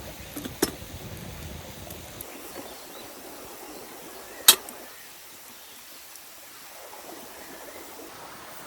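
Two sharp knocks: a light one under a second in and a loud one about four and a half seconds in, over a steady background hiss. A low rumble in the background stops about two seconds in.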